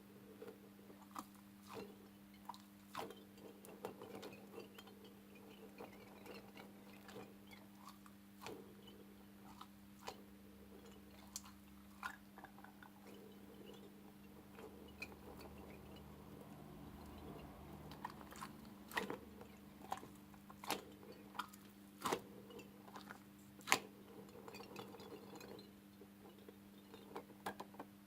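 Slime being squeezed and pressed by hand, giving irregular sticky crackles and clicks, a sharper snap just before the end, over a steady low hum.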